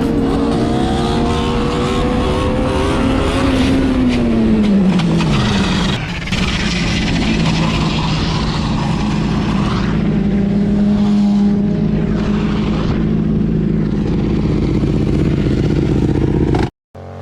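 Motor vehicle engine running hard at speed. Its pitch drops steeply about four seconds in, then holds steady until the sound cuts off abruptly near the end.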